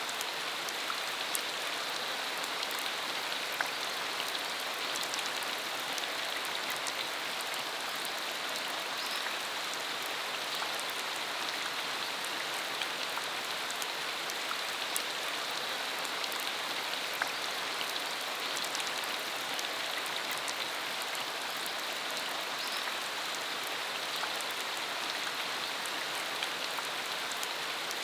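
Steady rain falling on a dirt country road, a constant hiss with many separate drops ticking close by.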